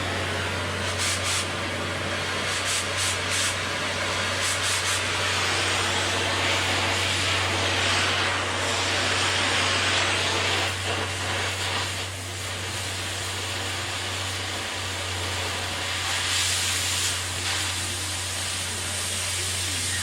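Oxy-fuel cutting torch hissing steadily as it cuts through thick steel plate. The hiss swells in the middle, with a few crackling pops of burning slag in the first seconds, and a steady low hum runs underneath.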